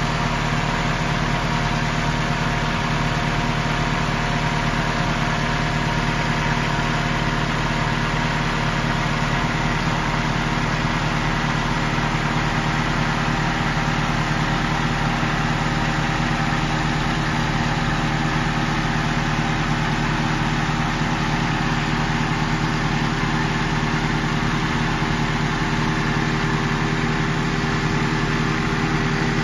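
Toyota Corona ST171's 2.0-litre 16-valve EFI four-cylinder engine idling steadily, with no revving. It runs smoothly, and the owner says it still sounds good.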